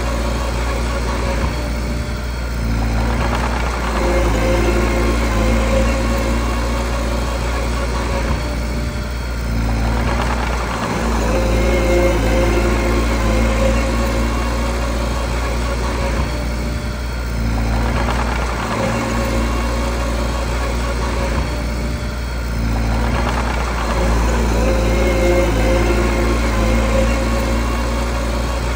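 Mini bulldozer's diesel engine running steadily, its sound changing in a cycle roughly every six to seven seconds as the machine works.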